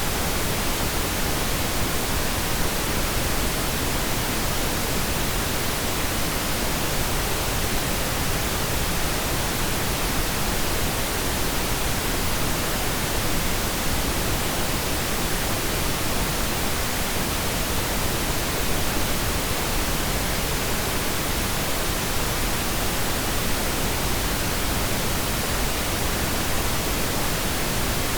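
Steady pink noise: an even, unbroken hiss with no changes or separate events.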